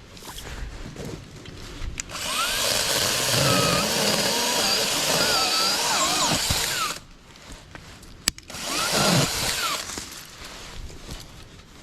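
Battery-powered 20-volt mini chainsaw cutting wood for about five seconds, its motor pitch dipping and rising under load. After a sharp click it makes a second, shorter run.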